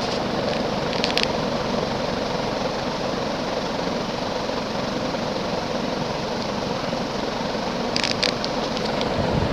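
Moss WF Series 42-inch ceiling fan, built by Wing-TAT with an oversized motor, running on high speed: a steady rush of air from the fast-spinning blades over the motor's hum. A few faint clicks come about a second in and again near the end.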